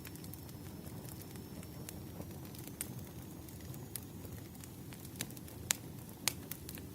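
Wood fire crackling: a low steady rumble with scattered sharp pops, a few louder ones in the last two seconds.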